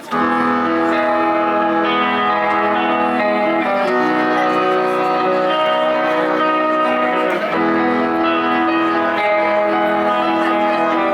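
A live indie rock band starting a song, electric guitars ringing out sustained chords that change every couple of seconds. The music comes in suddenly over crowd chatter and stays at a steady level.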